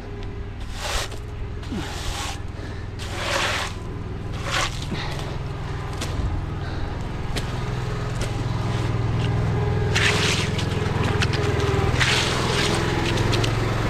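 An engine runs steadily and grows louder partway through, while wet concrete is moved in several short, splashy scrapes.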